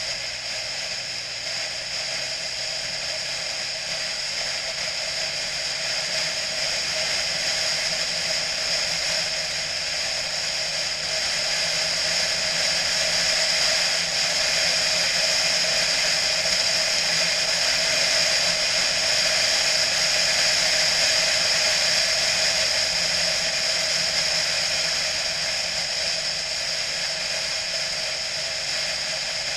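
BMW motorcycle on the move: steady engine and road noise mixed with wind rush, growing a little louder in the middle and easing off towards the end.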